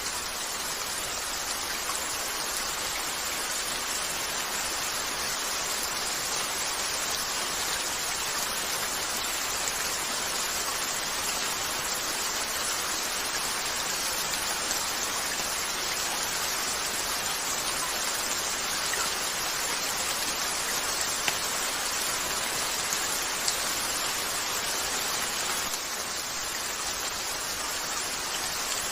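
Steady rain falling on a window, an even patter with no breaks. A couple of sharp ticks stand out near the end.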